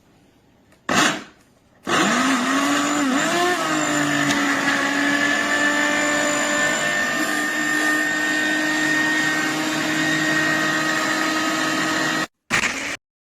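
Amazon Basics 300 W personal blender motor running. A short pulse comes about a second in. Then the motor runs steadily for about ten seconds, its pitch wavering at first as it takes up the load, and stops suddenly, with one more brief pulse near the end.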